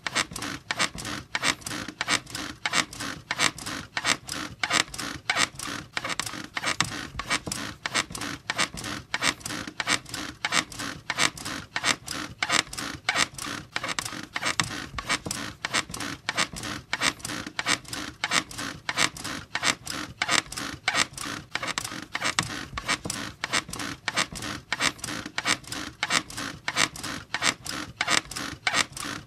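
A squeaky bed creaking over and over in a steady, quick, even rhythm of short squeaks.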